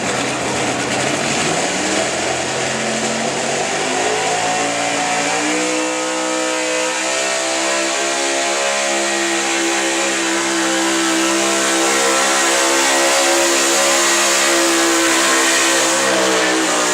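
Gasoline engine of an altered stock 4x4 pulling truck under full load on a sled pull: the revs climb over the first few seconds, then hold high and steady, easing a little near the end.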